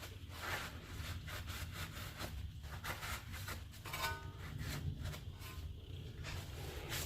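Irregular scraping, rubbing and knocking of parts and hand tools being handled during front strut removal on a car, with a few short ringing clinks about four seconds in, over a steady low hum.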